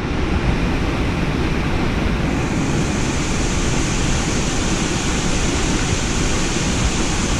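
Steady, even rushing noise with no pitch or distinct events; its hiss grows a little brighter about two seconds in.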